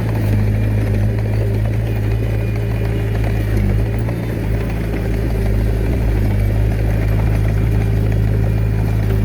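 Diesel engine of the earthmoving machinery running steadily at a constant speed, a low even drone with no changes in pitch.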